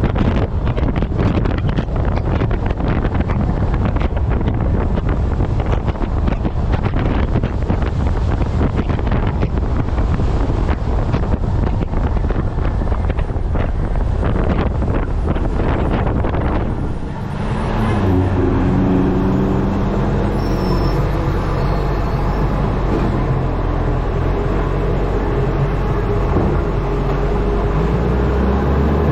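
Heavy wind buffeting a truck-mounted microphone at road speed. About seventeen seconds in the wind drops away and the truck's engine is heard running steadily with a few low tones, one rising in pitch near the end.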